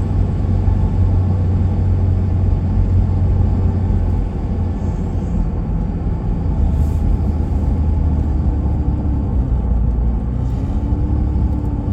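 Car engine and tyre noise heard from inside the cabin while driving: a steady low rumble that shifts in pitch about four seconds in.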